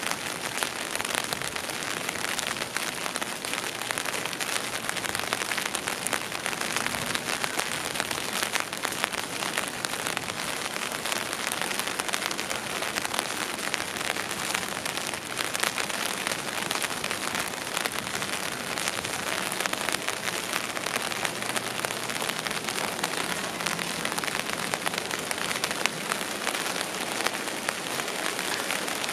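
Steady rain pattering on surfaces, a dense even hiss full of sharp individual drop ticks.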